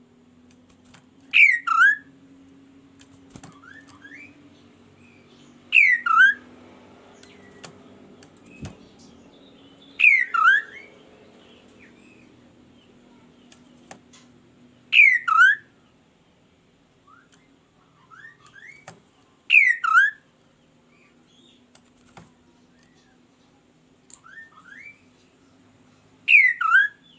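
Kaso-kaso bird calling: a loud double note of two quick falling whistles, given six times about every four to five seconds. Fainter short rising chirps come between the calls, over a faint steady low hum.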